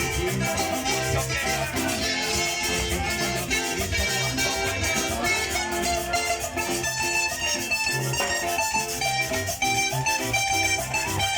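Carranga band playing an instrumental passage: plucked strings over a steady, even rhythm.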